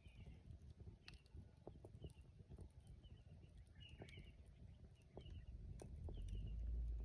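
Wood campfire crackling with many small sharp pops, while a bird calls in short repeated chirps in the background. A low rumble builds near the end.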